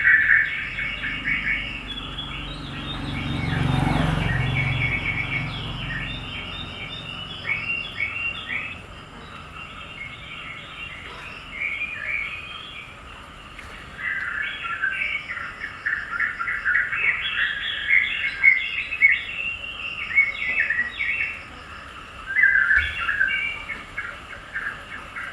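Small birds chirping in quick, dense runs of notes, with a brief low rushing swell about four seconds in.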